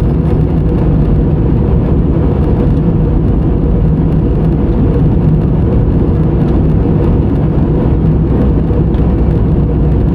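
Steady low rumble of an airliner's jet engines and rushing air, heard inside the passenger cabin.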